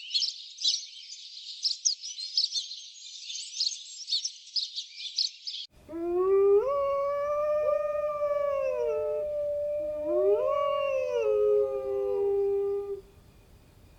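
Dog howling: two long, pitched howls that rise and fall, the second starting about ten seconds in. Before them, dense high chirping runs for the first half and cuts off abruptly where the clips change.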